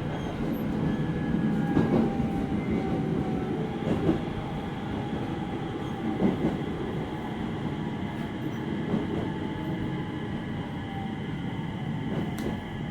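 Interior running sound of a 701 series 5500-subseries electric train: a steady rumble with a motor whine that falls slowly in pitch as the train slows, and a few knocks from the wheels passing over rail joints about two seconds apart.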